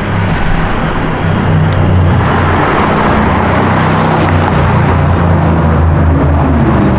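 A sports car's engine running close by: a deep, steady engine note with rushing exhaust and road noise, growing a little louder during the first two seconds and then holding.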